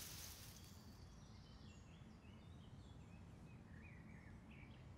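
Near silence: faint outdoor ambience with scattered short, high bird chirps over a low steady rumble. A faint hiss stops about a second in.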